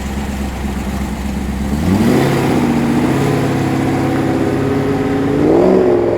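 A performance car's engine accelerating away, its note rising about two seconds in and holding, then climbing again with another burst of revs near the end.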